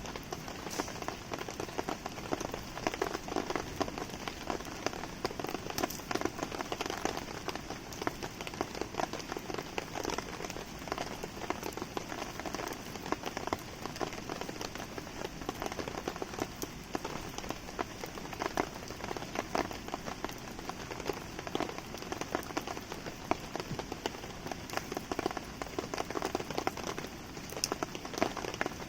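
Steady rain pattering on surfaces in dense small drop ticks, mixed with the crackle of a wood campfire.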